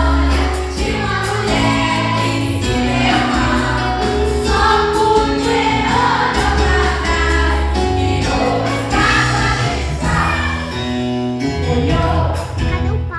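Gospel worship song with a choir singing over instrumental backing with a steady bass line.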